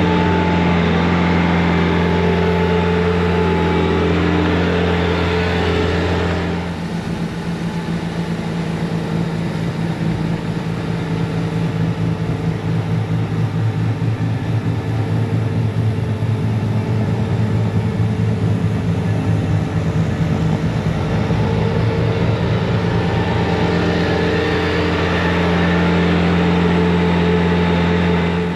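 Bobcat T66 compact track loader's diesel engine running steadily under load while working a snowblower attachment. About seven seconds in the sound turns rougher and rattling, and it smooths back to a steady drone near the end.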